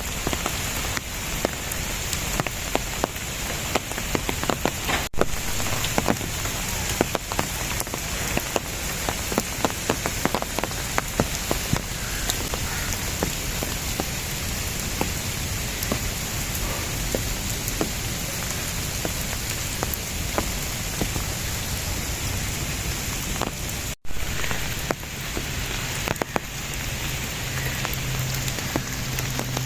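Steady rain falling, a constant hiss with many separate drops ticking.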